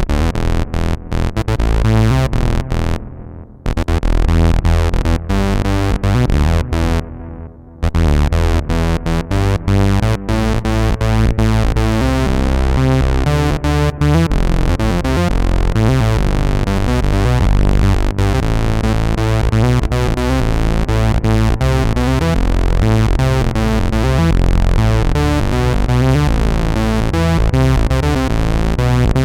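Arturia MatrixBrute analog synthesizer playing a fat brass patch. Two short breaks come in the first eight seconds, then it plays on without pause.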